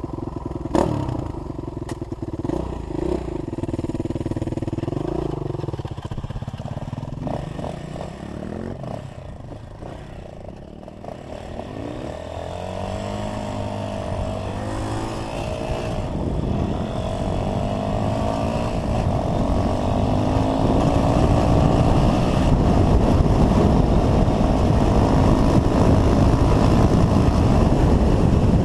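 Dirt bike engine running, its pitch wavering with the throttle for the first several seconds. It fades about ten seconds in, then rises in pitch and grows louder, running steadily and loudly near the end.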